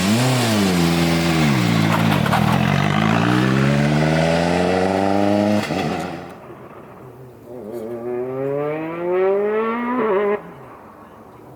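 Rally car engines at full throttle, each a turbocharged 1.6-litre four-cylinder. In the first half one car is close and loud: its engine pitch drops, then climbs steadily as it accelerates hard. After a sudden break about halfway, a quieter, more distant car accelerates with rising pitch, and its sound cuts off abruptly near the end.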